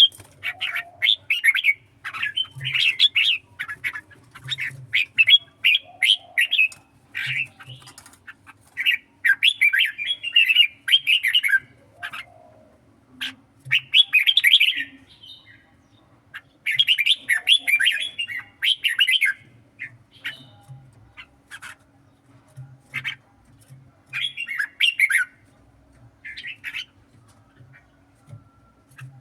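Red-whiskered bulbul singing in repeated bursts of quick chattering notes, each phrase a second or two long, with short pauses between.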